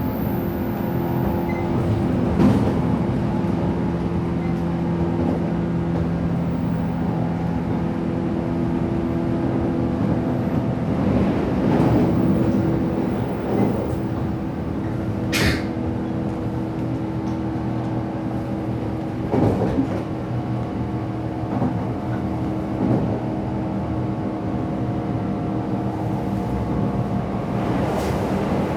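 JR West 117 series electric train heard from inside the passenger car while running: a steady rumble and hum with a few held low tones, and now and then a knock from the wheels over the rail, one sharp click about halfway through.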